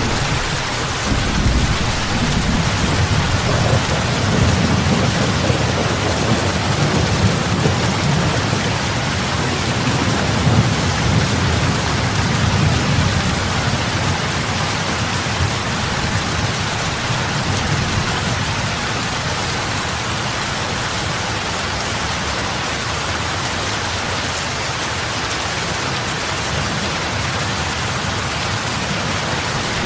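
Heavy rain falling on a lake's surface, a steady hiss of drops hitting water. Under it runs a deep low rumble that eases in the second half.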